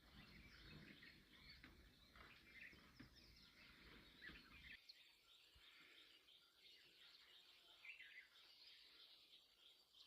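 Near silence: faint outdoor ambience with scattered small-bird chirps, and a low rumble that stops suddenly about five seconds in.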